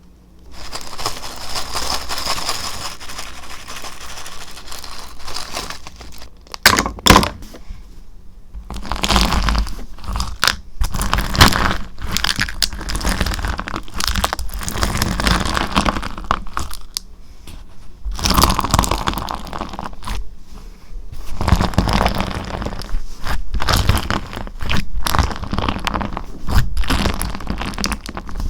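Slime being squeezed, pressed and stretched by hand, making dense crackling and crunching sounds with a few sharper pops. The handling comes in bursts with brief pauses in between.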